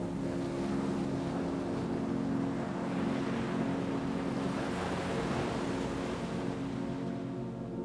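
Ocean waves washing in, a wave swelling and fading away in the middle, over a steady low ambient drone.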